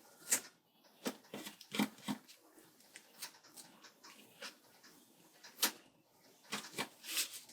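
Paper and sticker sheets being handled: scattered rustles and light taps as stickers are peeled and placed in a planner, with a sharper rustle near the start and a cluster near the end.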